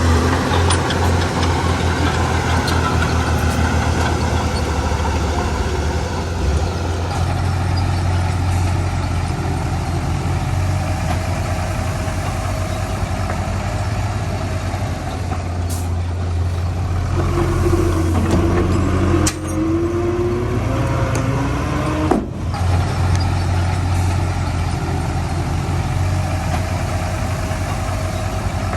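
Heavy diesel construction machinery running steadily with a deep engine drone. Past the middle come a few short wavering squeals.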